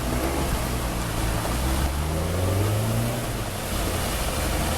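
An engine running steadily with a low hum that rises slightly in pitch about two seconds in, over a continuous rushing noise of wind and water.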